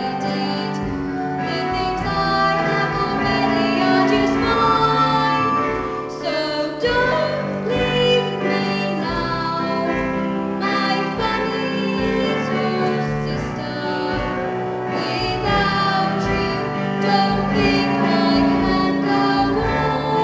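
A trio of female voices singing a theatre song together, with long held notes over instrumental accompaniment.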